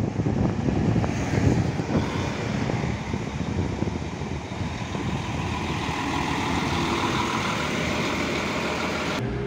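SA139 diesel railcar running, a steady rumble and rattle of the ride, cut off abruptly near the end.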